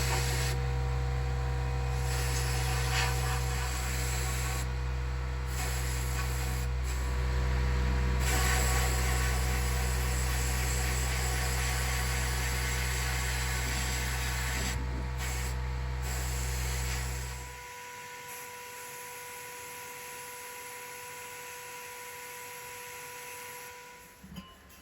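A machine running steadily with a strong low hum and a hiss, which stops about 17 seconds in, leaving a fainter steady hum with a thin high tone.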